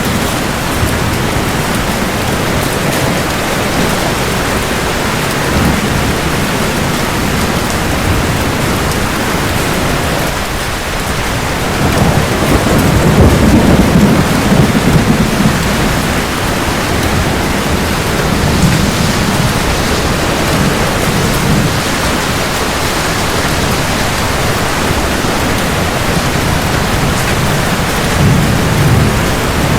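Steady heavy rain with low rolls of thunder; the loudest roll swells about twelve seconds in and lasts a few seconds, and weaker rumbles come later.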